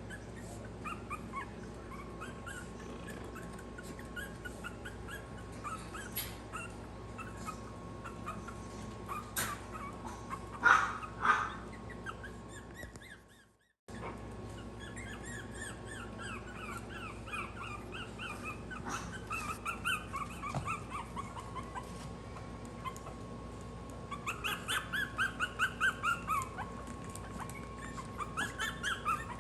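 Maltese puppies whimpering and squeaking in strings of short, high cries, with two louder yelps about eleven seconds in and a quick run of cries near the end. The sound cuts out briefly about halfway through.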